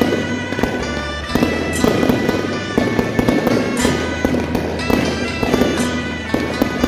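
Electronic firecracker machine firing rapid, irregular firecracker bangs through loudspeakers, mixed with loud music that has a steady bass line.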